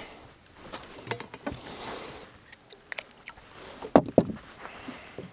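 Knocks, clicks and rustling as a freshly caught bass is handled aboard a fishing boat, with a short rush of noise a couple of seconds in and two sharp loud knocks about four seconds in.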